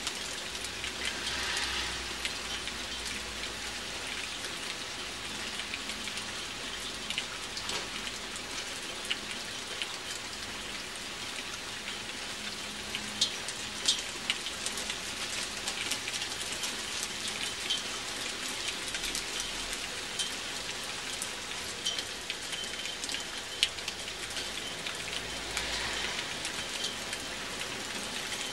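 Steady rain falling, with occasional small hail mixed in, pattering and ticking sharply on the balcony and its railing. A few louder ticks come around the middle and again about two-thirds through.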